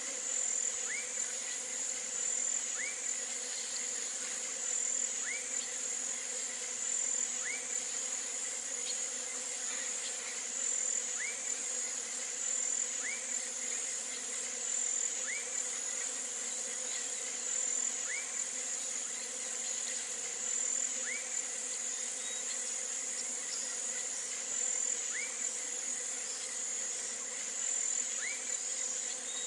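Steady high-pitched drone of an insect chorus, with a short rising call repeating about every two seconds.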